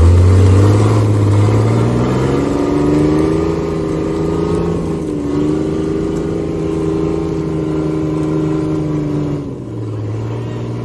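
Off-road 4x4's engine revving: the pitch climbs over the first couple of seconds, holds high and steady under load with a brief dip about five seconds in, then drops back to a lower pitch near the end.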